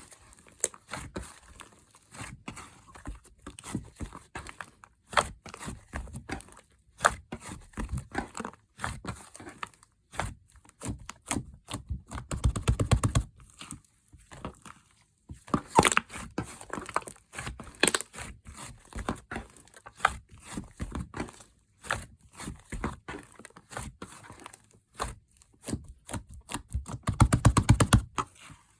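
Soft slime being squished, stretched and folded by hand, giving many sticky clicks and crackles, with two spells of very rapid crackling: about halfway and again near the end.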